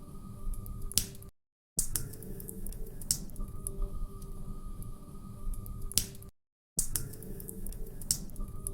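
Wood fire crackling in a fireplace: irregular snaps and pops over a low steady rustle, with a sharper pop about a second in and another near six seconds. The sound drops out to dead silence twice for about half a second.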